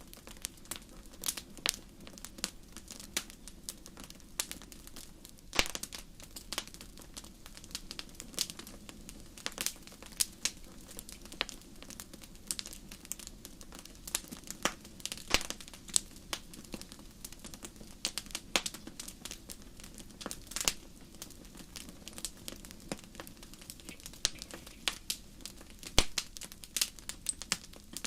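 Fireplace fire crackling: irregular sharp pops and snaps, several a second, over a steady low rush of flame.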